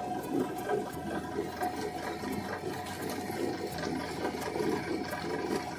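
A pot of food cooking on the stove, its liquid bubbling with a steady crackle.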